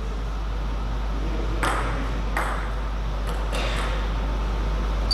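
Table tennis ball being hit back and forth between bats and table, several sharp clicks spaced about half a second to a second apart, over a steady low hum.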